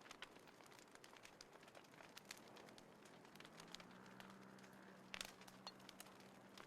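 Small wood fire crackling faintly, with scattered sharp pops, the loudest about five seconds in. A faint steady low hum comes in about halfway through.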